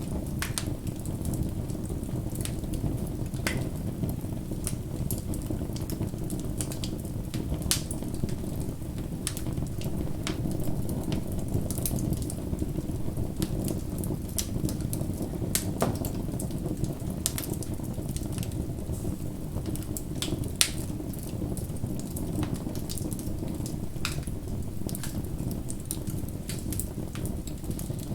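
Wood fire burning: a steady low rumble of flames with irregular sharp crackles and pops throughout.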